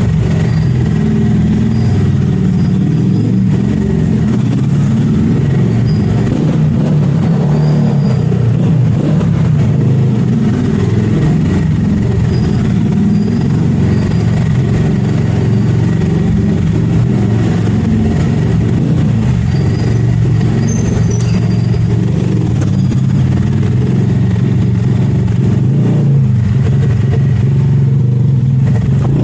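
Motor vehicle running steadily: a continuous loud low rumble with no clear revving.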